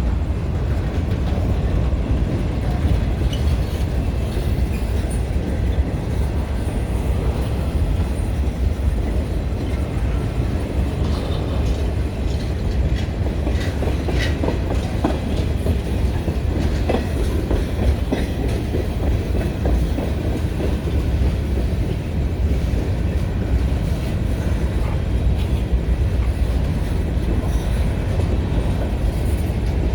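Florida Central Railroad freight train rolling past in a steady, loud low rumble of wheels on rail, with scattered clicks from the wheels and a few faint squeals around the middle.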